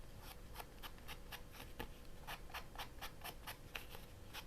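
Inking the edges of a paper tag: quick, even rubbing strokes of an ink pad against the paper edge, about four a second, faint.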